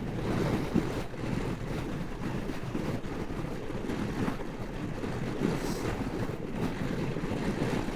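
Wind buffeting the microphone: a steady, gusty rumble.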